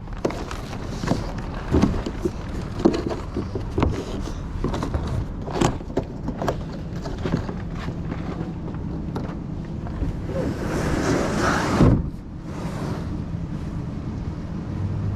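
Plastic wrapping being handled and pulled off a new kayak: scattered crackles and knocks, with a loud rush of rustling about ten seconds in that stops suddenly, over a steady low hum.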